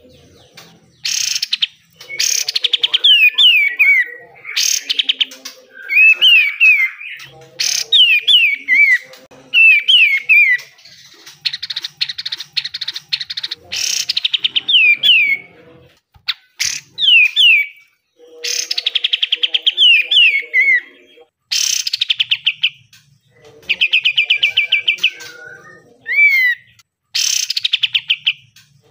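Kapas tembak (katem) songbird singing hard in its harsh 'besetan' style: bursts of quick downward-slurred whistled notes alternating with fast rattling trills, a new phrase every second or two.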